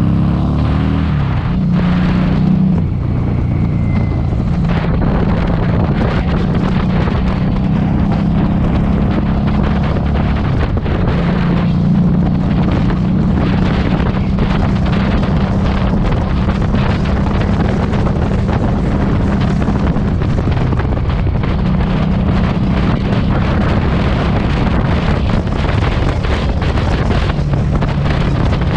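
Harley-Davidson Street 500's V-twin engine running through a TAB Performance aftermarket exhaust while riding, with heavy wind buffeting on the microphone. The engine pitch shifts in the first few seconds, then holds steady at cruising speed.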